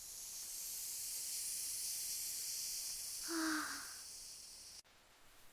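Steady high-pitched hiss of rain, with a brief louder sound about three and a half seconds in; the hiss cuts off suddenly shortly before the end.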